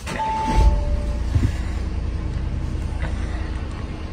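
A two-note falling chime from the Audi Q5 as the ignition comes on, then the engine starts about half a second in and idles steadily.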